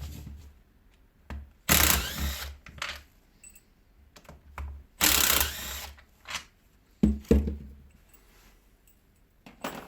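Tools and small metal parts of a Hilti DD 130 core drill being handled during disassembly: scattered clicks and knocks, with two louder rasping bursts about two and five seconds in and two sharp knocks about seven seconds in.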